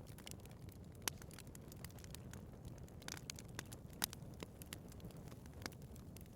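Wood fire burning in a fireplace: a steady low rumble with scattered crackles and sharp pops, two louder pops about a second in and about four seconds in.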